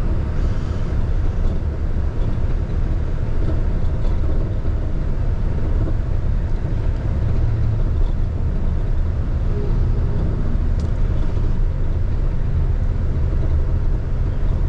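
Steady low engine and road rumble of a diesel box truck cruising at an even speed, heard from inside the cab.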